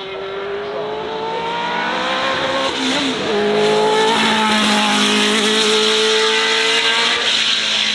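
High-performance car engine at high revs, its pitch climbing, dipping briefly about three seconds in, then climbing again as it gets louder, over a strong rushing hiss. The sound cuts off abruptly at the end.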